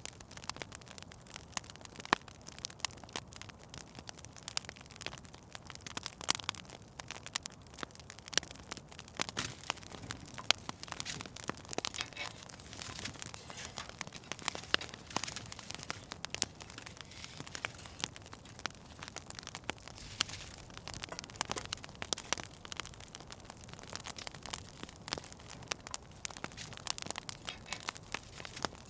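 Fire crackling in a fireplace: frequent irregular sharp pops and snaps over a soft steady hiss.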